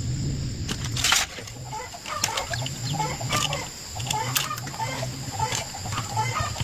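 Chickens clucking in short repeated bursts, with a few sharp clicks or knocks; the loudest comes about a second in.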